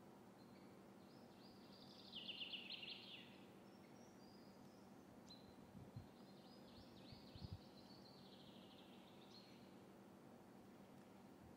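Near silence with faint birdsong: two short trilled phrases, about two seconds in and again about seven seconds in, over a low steady hum. A couple of soft low thumps in between.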